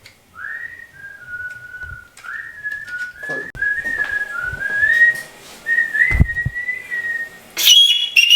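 A person whistling a tune: a string of short notes that glide up and down, with a few dull thumps under it. Near the end comes a louder, higher whistled note.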